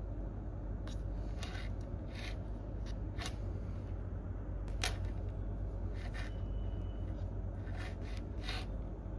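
Scattered, irregular clicks of computer keys and mouse buttons, a few seconds apart rather than steady typing, over a steady low hum of office room noise.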